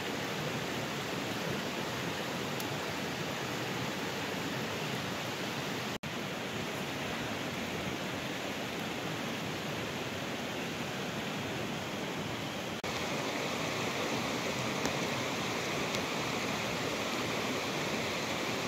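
Steady rain falling, an even hiss. It drops out for an instant about six seconds in and comes back a little louder and brighter from about thirteen seconds.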